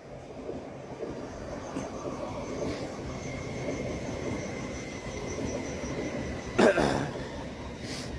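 A train running past at the station: a low rumble that grows over the first second, with a steady high whine coming in about two and a half seconds in. Near the end there is one short, loud burst over the top.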